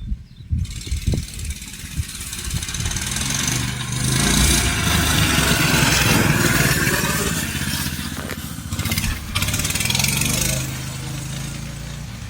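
A minibike's small engine running under throttle as it is ridden. It gets louder about four seconds in, holds for a few seconds, then eases off.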